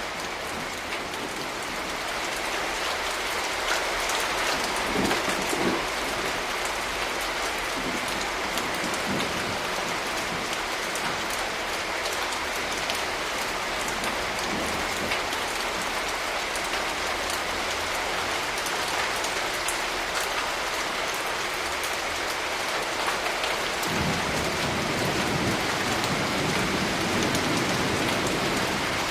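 Steady heavy rain with many separate drops ticking on a surface. About 24 seconds in, a low rumble of distant thunder rises under the rain and carries on.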